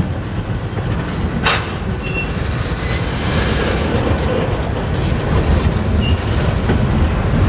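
Freight train cars rolling past with a steady rumble of wheels on rail. There are a few short high wheel squeals about two and three seconds in and again near six seconds.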